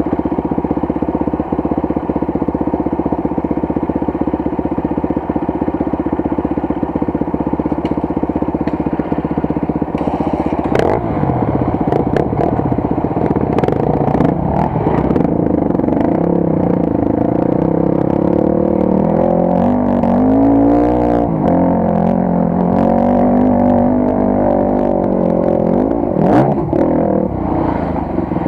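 Motorcycle engine running on an unpaved forest road: a steady note for about ten seconds, then revving up and down, with clattering knocks from the rough track in the second half.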